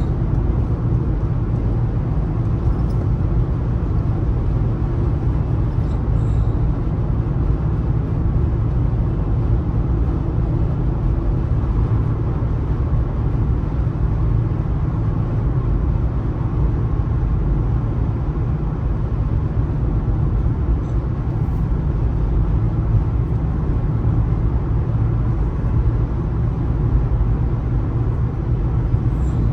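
Steady road noise of a car cruising on a highway: an even, low rumble of tyres and engine with no distinct events.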